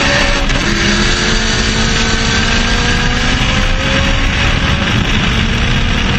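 K24-swapped Honda Civic EK's 2.4-litre four-cylinder under full throttle, its pitch climbing slowly, with a short drop about half a second in as it shifts up a gear and then climbs again. Wind rushes past the car at speed.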